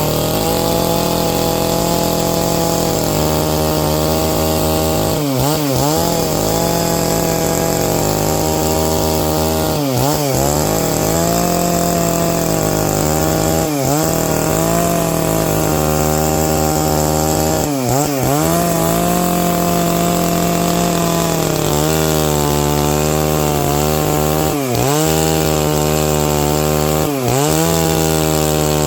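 Stihl MS 660 two-stroke chainsaw running at high revs while ripping a pine log lengthwise. Its engine pitch dips briefly and recovers every three to four seconds.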